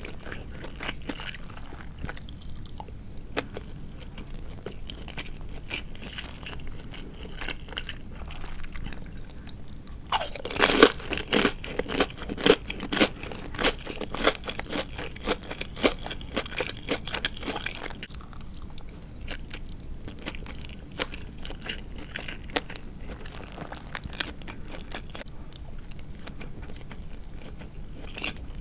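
Close-miked chewing with crisp crunching, as of the fried coating of tatsuta-age (Japanese deep-fried marinated chicken) being bitten and chewed. The crunching is quiet at first, grows much louder and denser about ten seconds in for several seconds, then eases back to softer chewing.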